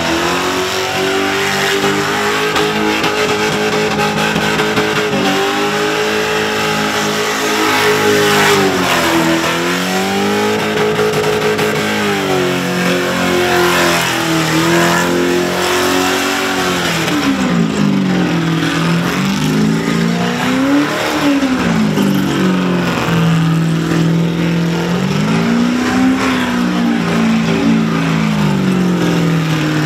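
Black Holden Commodore burnout car's supercharged engine held at high revs while its rear tyres spin, the pitch dipping and climbing again several times over a rough hiss of tyre and exhaust noise.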